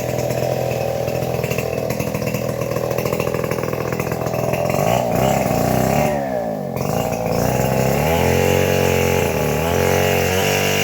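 A small engine-driven saw running steadily, then its engine speed dips and rises a few times around the middle, as under cutting load.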